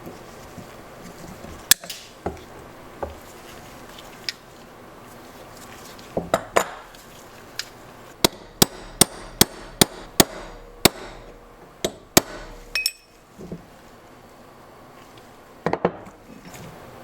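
Hammer striking metal: scattered blows, then a quick regular run of about eight strikes, roughly two or three a second, with a few more after.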